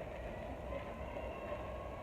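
Keikyu electric train running at the station platform: a steady low rumble with a faint high whine over it.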